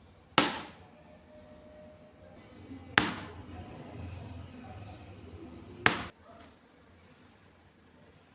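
Three sharp, hard strikes about two and a half to three seconds apart, each ringing off briefly, with a duller noise running between the second and third.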